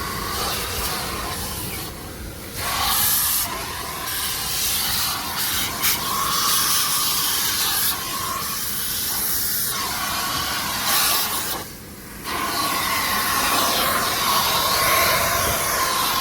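Car-wash vacuum cleaner hose sucking air with a steady rushing whine as the nozzle is worked around the car's interior; the sound dips briefly twice, about two seconds in and again near twelve seconds.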